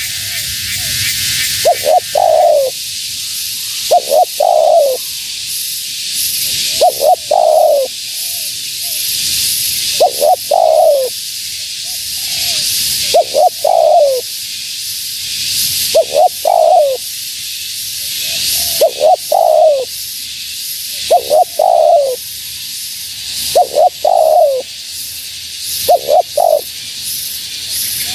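Spotted dove (tekukur) cooing over and over: each phrase is a couple of short coos ending in a longer coo that falls in pitch, repeated about every two and a half to three seconds. A steady high hiss runs underneath.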